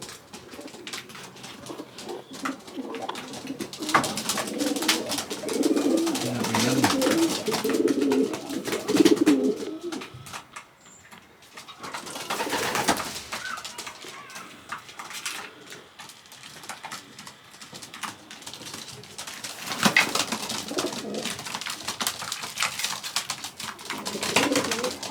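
Pigeons cooing in a small loft, in spells, with occasional sharper rustling noises in between.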